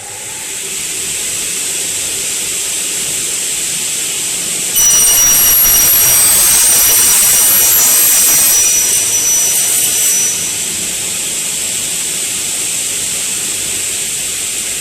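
Double-head aluminium cutting saw running, its blade motors at speed with a steady high whine. About five seconds in, the blades cut through an aluminium profile: the sound turns louder and shrill with ringing high tones for about five seconds, then drops back to the steady whine of the saw running free.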